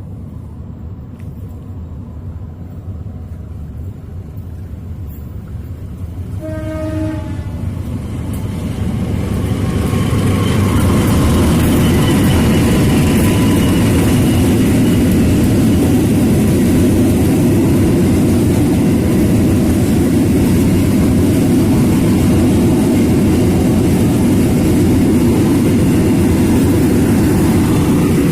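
Two diesel-electric locomotives, a CC 203 and a CC 201 in double traction, pass slowly hauling a passenger train. There is a short horn blast about seven seconds in, then the engines and carriages rumble loudly and steadily as they go by.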